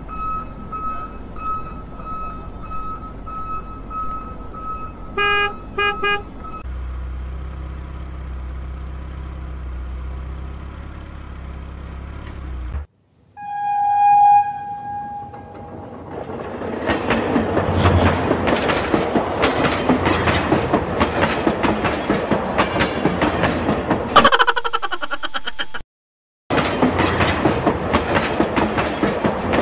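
Added vehicle sound effects. First a repeating electronic beep with a few short toots and then a low rumble. After that come one train horn blast and the steady clickety-clack of a running train, which cuts out briefly once near the end.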